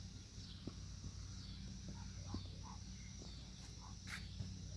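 Steady humming of many hummingbirds' wings beating together, like a motor or a beehive, with short high chirps scattered through.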